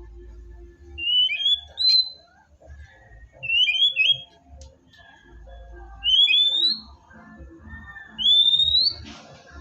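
White-rumped shama (murai batu) singing: four short, loud phrases of rising whistled notes, about two seconds apart.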